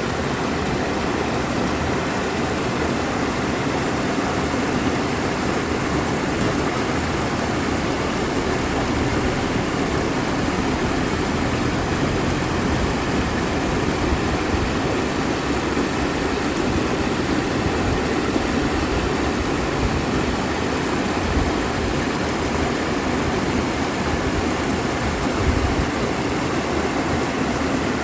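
Mountain valley stream rushing steadily, a constant even noise of flowing water.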